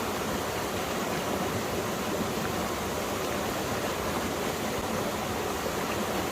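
A mountain valley stream running steadily, water rushing and splashing over rocks in an even, continuous rush.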